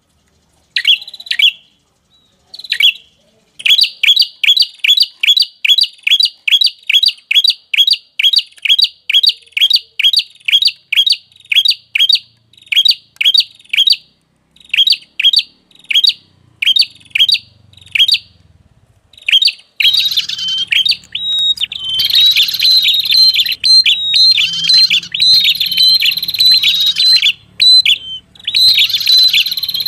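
Lure-call recording of the red-headed prenjak, a small prinia-type warbler. It gives sharp, high chirps repeated about three times a second, thins out in the middle, then turns to denser, almost unbroken chattering over a low hum from about twenty seconds in.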